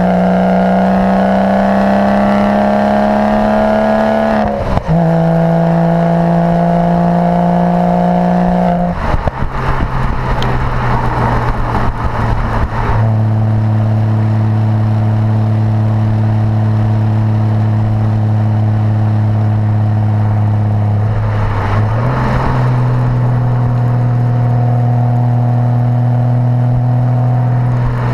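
Porsche Boxster engine through a performance sports exhaust while driving. The pitch climbs under acceleration, with a brief break for a gear change about four and a half seconds in. From about nine seconds it goes rough with irregular crackles for a few seconds, then holds a steady lower pitch, stepping up once more about 22 seconds in.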